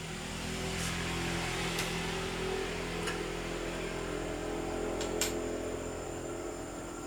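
A motor running steadily with a low hum, with a few sharp clicks about three and five seconds in.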